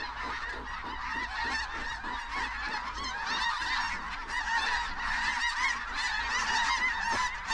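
A dense chorus of snow goose calls: many high, overlapping honks from a large flock, going on without a break, over a low wind rumble.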